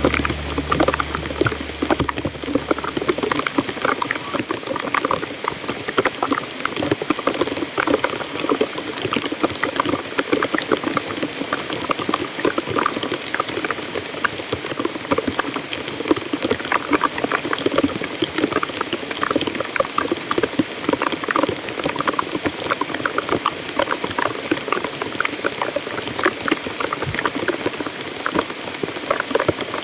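Swollen stream rushing and splashing after heavy rain: a steady, dense churning of water with constant small splashes.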